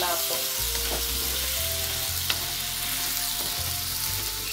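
Flour-dusted chicken pieces sizzling in hot fat in a nonstick wok while being stirred with a wooden spatula, with a few sharp taps of the spatula against the pan, one about two seconds in. The flour is cooking in the fat as the thickener for the sauce.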